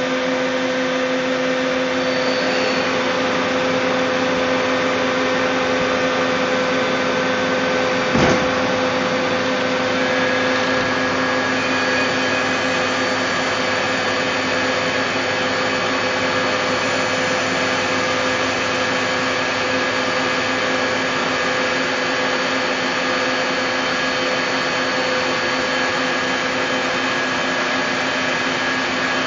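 Doosan Puma 350 CNC lathe running with a steady, loud mechanical hum and whine made of several constant tones over a hiss. A single knock comes about 8 seconds in, and a higher tone joins at about 10 seconds.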